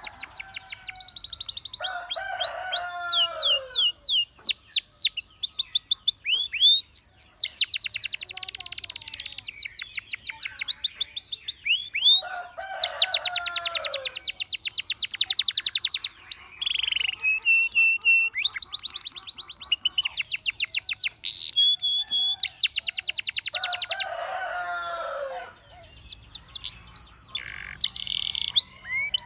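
Canary song: long, very rapid trills and sweeping whistled notes, high-pitched and almost continuous. A lower, falling call comes three times, about ten seconds apart.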